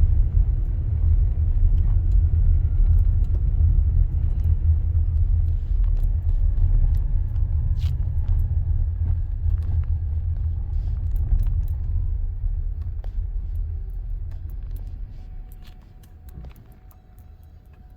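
Car driving on an icy road: a steady low rumble of the car and its tyres, heard from inside the cabin, dying away over the last few seconds as the car slows, with scattered faint clicks.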